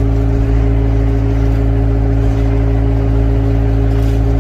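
Heavy construction-machine engine running steadily at a constant speed, a loud, even drone with a deep rumble.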